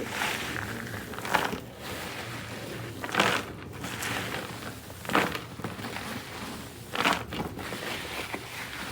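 Orchid potting mix of perlite and charcoal being mixed, a gritty crunching and rustling with louder crunches about every two seconds.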